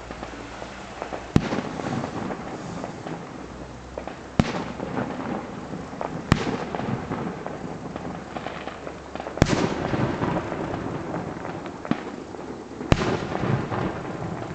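Distant fireworks show: five sharp aerial shell bangs a few seconds apart, each trailed by a long rolling echo off the hills, over steady crackling from the burst effects.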